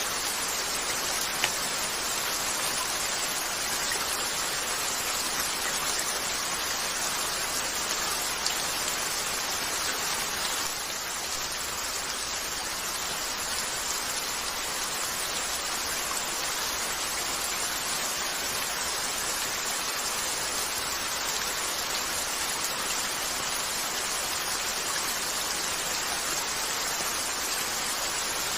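Steady hiss of rain falling, with a couple of sharp pops from a crackling fireplace.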